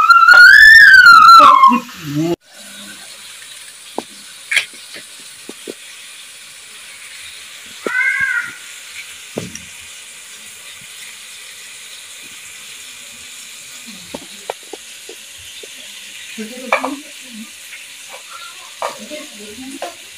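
A loud high-pitched tone that wavers up and down for about two seconds, then stops abruptly. After it comes a faint steady sizzle of tomatoes frying in a wok, with scattered light clicks of a knife cutting an apple in the hand, and a brief high call about eight seconds in.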